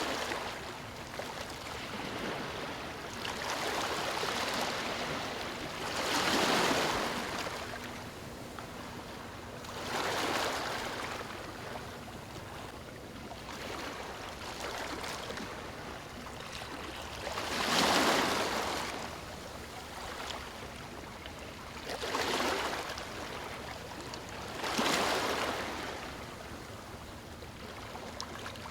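Small waves breaking onto a stony shore, each wash swelling and falling away about seven times over a steady background wash.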